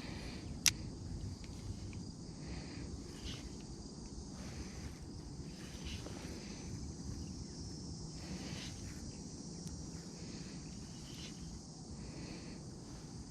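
Faint outdoor ambience on open water: a low, steady rumble with faint scattered higher chirps or rustles, and one sharp click less than a second in.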